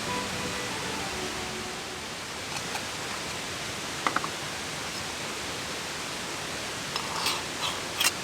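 Steady rushing outdoor noise, with a few short light knocks and rustles about four seconds in and again near the end; the tail of background music fades out at the very start.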